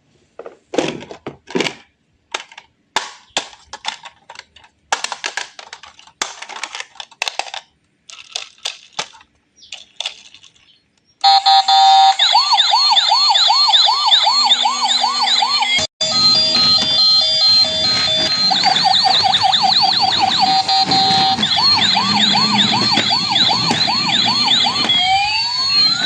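Scattered short plastic clicks and rattles, then a loud electronic siren warbling in quick repeated up-and-down sweeps, like the sound effect of a battery-operated toy truck.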